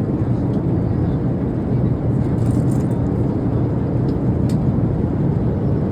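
Steady low rumble of an airliner cabin in flight: engine and airflow noise heard from inside the plane. A couple of faint clicks come through near the middle and later on.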